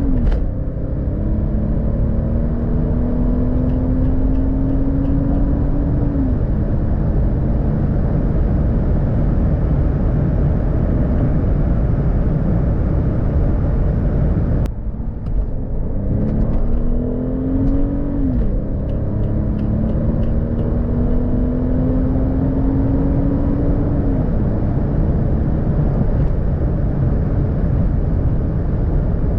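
The 2004 Mercedes S65 AMG's 6.0-litre twin-turbo V12 pulls hard under full acceleration. Its note climbs slowly and drops sharply at each upshift, about six seconds apart, over steady road and wind noise. The sound breaks off abruptly about halfway through, and a second pull through the gears begins.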